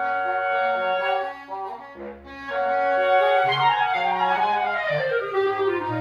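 A wind quintet, clarinet among them, playing live chamber music: several held wind notes in harmony, a brief softer moment about two seconds in, then a falling run of notes in an upper part over a low held bass note.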